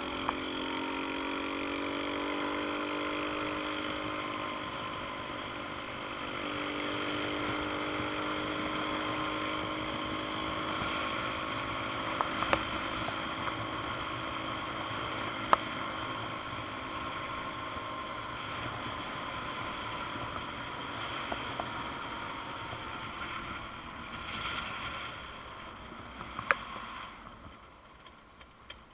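Xpro Storm DLX 150cc pit bike engine running through a ride, its pitch rising a little at first and then holding steady. A few sharp clicks cut through it, and it dies down near the end.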